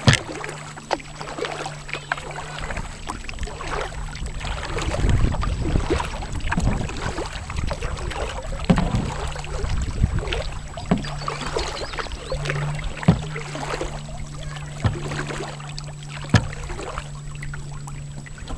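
Kayak paddling: a paddle splashing through the water, with sharp knocks every few seconds.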